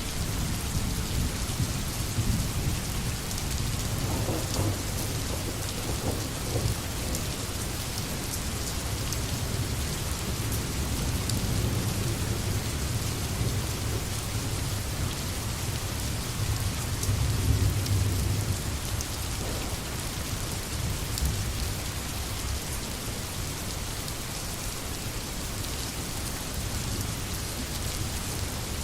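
Steady rain falling through forest, with a low rumble underneath that swells about two-thirds of the way through.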